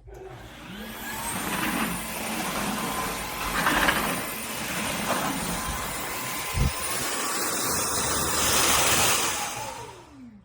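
Dreame H12S wet-dry vacuum mop running steadily with a high motor whine, with a single low thump partway through. Near the end the motor shuts off, its pitch falling as it winds down.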